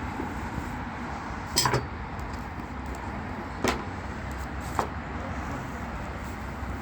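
Steady low rumble, broken by three short, sharp knocks spread over a few seconds.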